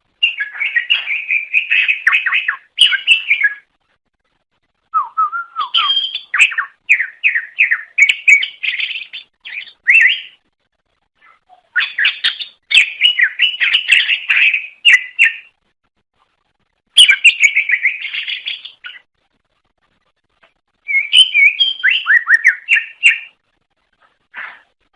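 Greater green leafbird (cucak ijo) singing in five bursts of rapid, varied chirps and whistled notes, each two to five seconds long, separated by silent gaps, with one short note near the end.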